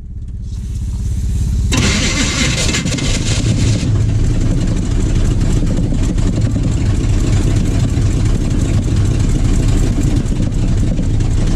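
Chevy small-block 350 V8 in a 1980 Chevy K30 pickup starting for the first time: it turns over, catches suddenly about two seconds in and revs for a couple of seconds, then settles into steady running.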